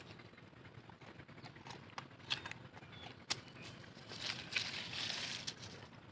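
Biting into and chewing a firm green mango: scattered sharp crunching clicks, with a louder, denser stretch of chewing from about four seconds in.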